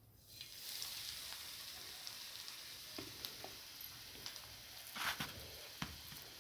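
A crumb-coated pea kebab patty sizzling in hot oil on a flat griddle (tava), the hiss starting about half a second in as it is laid down. Scattered crackles run through it, with a louder burst of spattering about five seconds in.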